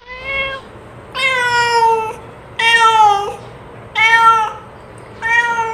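A stray domestic cat meowing: five drawn-out meows in a row, the second and third the longest and dropping slightly in pitch at the end.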